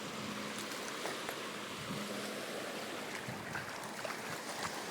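Small lake waves lapping and washing at the shore, a steady watery hiss with a few faint splashes and ticks.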